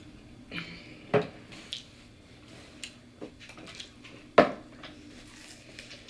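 Eating and table-handling sounds: food containers and utensils clattering, with two sharp knocks about a second in and a little after four seconds, and a few fainter clicks between.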